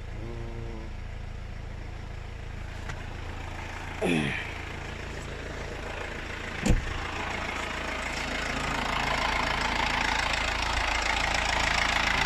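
Mercedes Sprinter diesel engine idling steadily, now keeping running after its fuel rail pressure fault was fixed. A short falling squeak comes about four seconds in, a sharp knock a little before seven seconds, and a hiss builds up over the second half.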